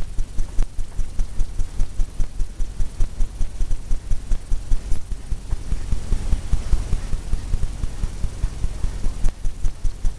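Brush tapping against a stretched canvas, a steady run of dull low thumps at about four or five a second, as paint is dabbed in to diffuse it.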